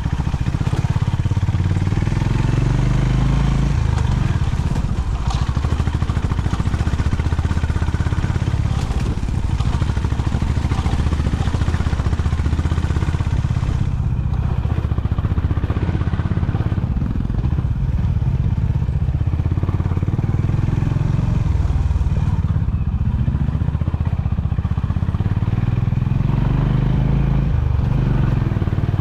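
Honda CB350's single-cylinder engine running under way, its pitch rising and falling as the throttle is opened and closed.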